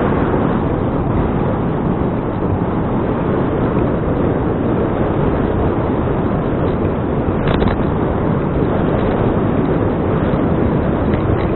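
Steady wind rush buffeting the microphone of a bike-mounted action camera while riding, mixed with tyre and road noise, with one short knock about seven and a half seconds in.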